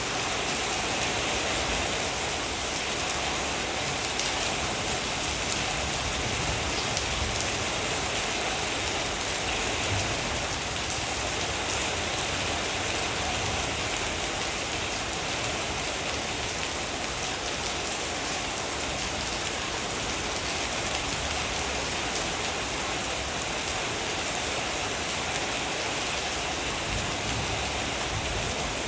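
Heavy rain falling steadily, a dense, even hiss of drops with fine patter and no letting up.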